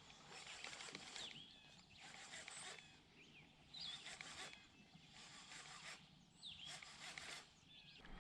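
Faint outdoor ambience: scattered short bird chirps over soft, recurring rushes of noise.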